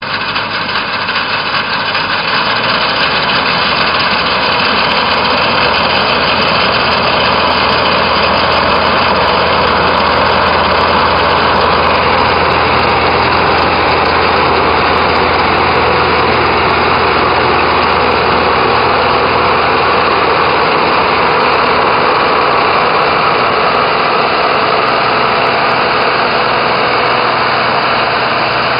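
Combine harvester running steadily while harvesting rapeseed: a continuous engine and machinery drone.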